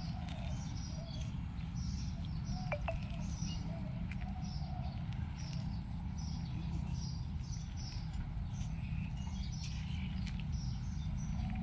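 Small bird chirping over and over, short high notes about twice a second, over a steady low rumble.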